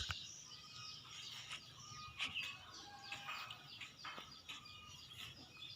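Faint birds chirping in the background, many short scattered calls, with a sharp click at the very start and another at the end.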